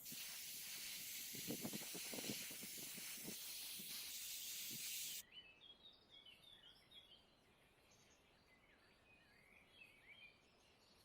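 A steady high hiss with a few dull knocks under it, cutting off suddenly about five seconds in; after that, faint birds chirping.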